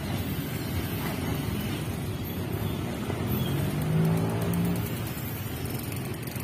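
Container freight train rolling away along the track: a steady low rumble of wheels on rail. About four seconds in, a low steady hum sounds over it for about a second.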